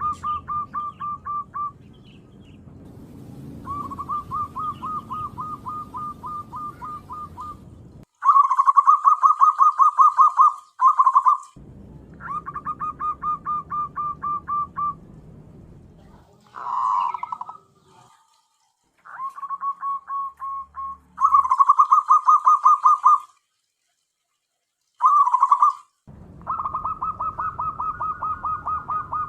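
Zebra dove (perkutut) cooing: repeated phrases of rapid, evenly spaced staccato notes, each phrase one to three seconds long with short pauses between. The background drops out abruptly in places, as in an edited or looped recording; the loudest phrases come about a third of the way in and again about three quarters through.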